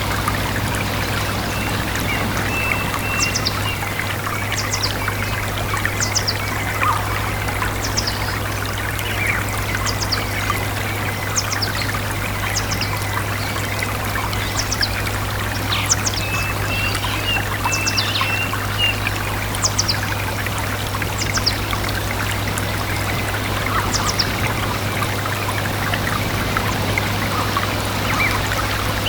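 A stream flowing steadily over rocks, with a bird repeating short, high, falling chirps about once a second through most of it.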